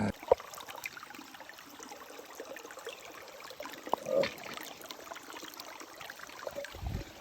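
Running water of a small mountain stream, an even rushing hiss with scattered small ticks. A sharp knock comes just after the start, and a brief louder sound about four seconds in.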